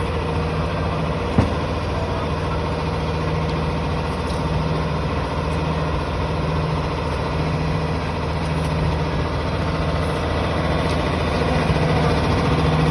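Steady street traffic hum with heavy vehicles idling, and one short sharp knock about a second and a half in.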